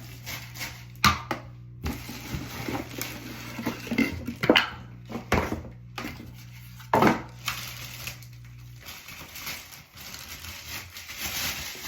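Packaging and hard plastic parts being handled while unboxing a hair dryer: rustling and crinkling, with sharp knocks, the loudest about one, four and a half and seven seconds in. A low steady hum underneath stops about nine seconds in.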